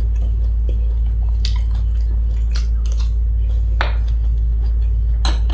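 A person chewing food close to the microphone, with a few short wet mouth clicks, over a steady low hum.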